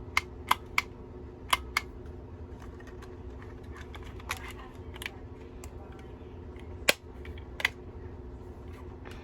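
Corner-rounder punch being worked to round the corner of a paper business card: a string of sharp, irregular clicks and snaps, the loudest about seven seconds in.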